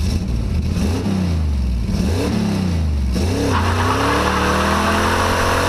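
Car engine revving: a few quick revs that rise and fall, then from about halfway a long rev held high with loud exhaust noise.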